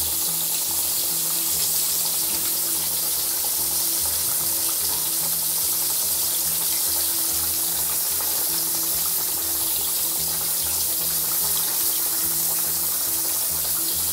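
Flour-dredged pork chops deep-frying in hot vegetable shortening in a cast-iron skillet: a steady, dense crackling sizzle.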